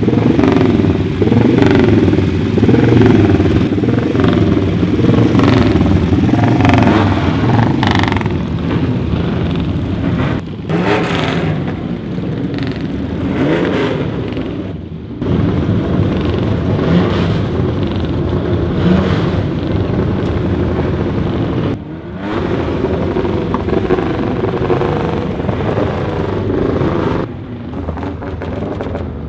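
Historic racing cars' engines running loud on the circuit, revving and accelerating as cars pass, over several abruptly cut stretches.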